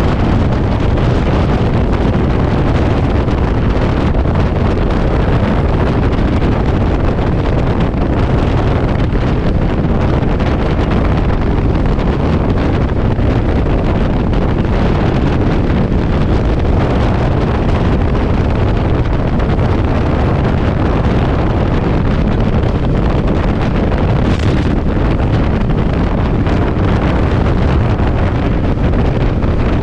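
Heavy wind noise battering the microphone of a motorcycle at riding speed in strong gusty wind: a loud, steady low rush with vehicle noise underneath.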